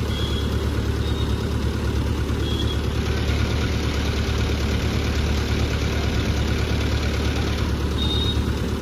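Heavy diesel engine idling steadily with a deep, even drone.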